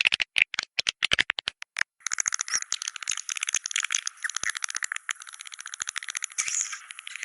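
Swiftlet calls: a fast run of sharp clicks for about the first two seconds, then a dense, continuous rattling twitter.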